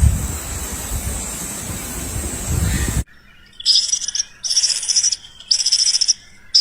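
Wind buffeting the microphone, then an abrupt cut to four short, high-pitched chirping calls, about one a second, typical of a bird.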